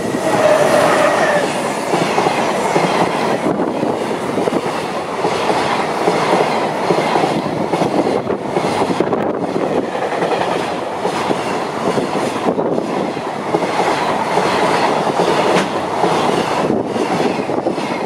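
JR Freight EH500 electric locomotive and its container wagons passing at speed: a loud, steady rush of wheel and rail noise that lasts the whole train, with a brief steady tone in the first second or so as the locomotive goes by.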